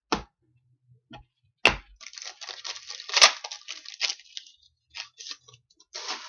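Foil wrapper of a hockey card pack being torn open and crinkled. It starts with a couple of sharp clicks, then crackles with one loud snap about three seconds in.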